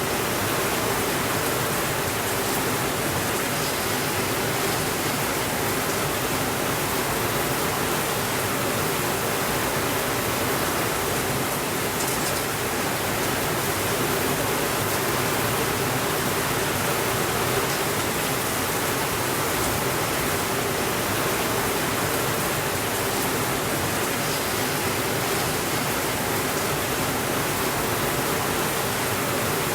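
Steady rainfall, a dense even hiss that holds at one level throughout.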